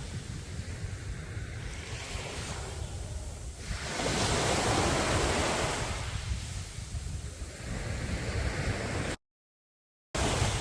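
Sea waves breaking and washing up a beach, with a steady low wind rumble on the microphone. A wave swells and crashes about four seconds in. Near the end the sound cuts out completely for about a second.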